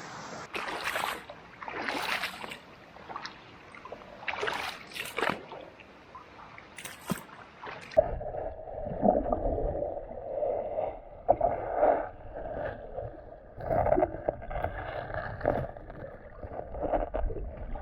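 Water splashing and sloshing as people wade along a shallow stream, in irregular bursts. After about eight seconds the sound turns duller, with a low rumble underneath.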